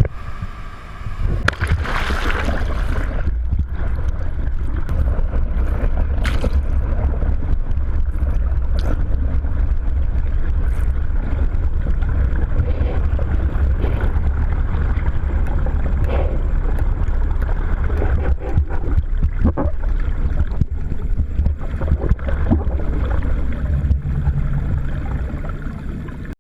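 A boat on open water: a steady low rumble with rushing water and wind noise, and occasional knocks.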